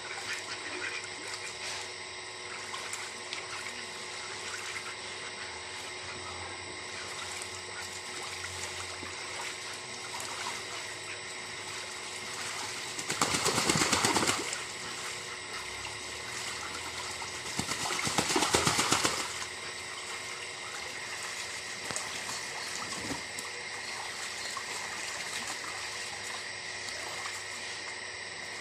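Steady trickling water, with two louder rushes of about a second each in the middle.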